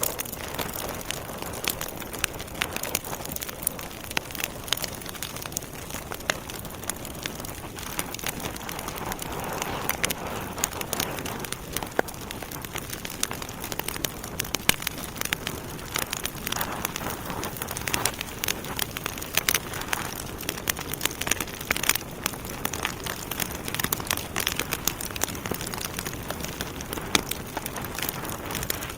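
Wood logs burning in a fireplace, crackling continuously with frequent sharp pops and snaps over a soft steady hiss.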